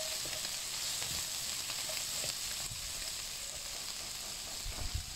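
Chicken livers, gizzards, snow peas and bell peppers sizzling steadily in hot oil in a non-stick wok, stirred with a nylon spatula that scrapes lightly across the pan. A couple of dull knocks near the end.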